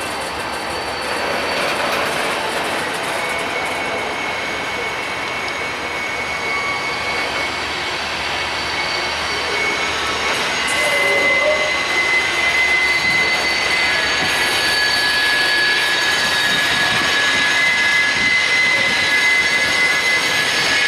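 Freight train rolling past: steady noise of wheels on rail, with several thin, high squeals held for seconds at a time.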